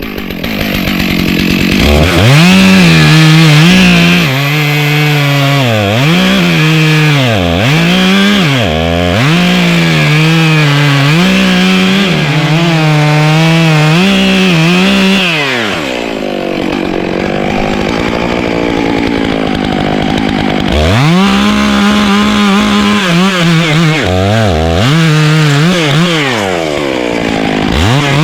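Chainsaw making a felling cut through a tree trunk at the base: the engine revs up, then runs at full throttle, its pitch dipping again and again as the chain bites into the wood. About sixteen seconds in the engine drops lower for several seconds, then climbs back to full speed.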